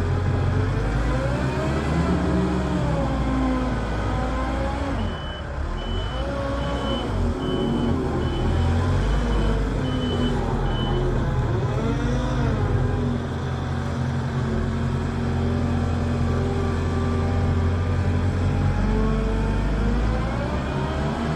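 Heavy farm machinery engines running and revving up and down under changing load, with a reversing alarm beeping steadily for several seconds partway through.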